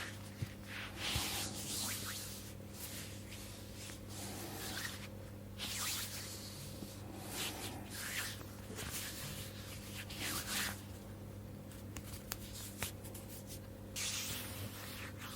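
Slow hand strokes over oiled skin and fabric: soft, squishy swishes every one to three seconds over a steady low hum.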